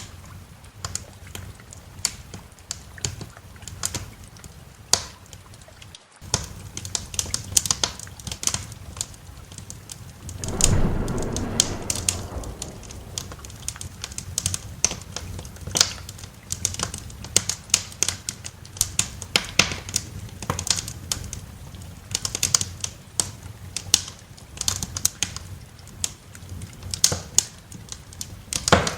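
Wood fire crackling in a fireplace, with dense irregular sharp pops throughout. A low rumble of thunder swells about ten seconds in and fades over a couple of seconds. The sound briefly cuts out about six seconds in.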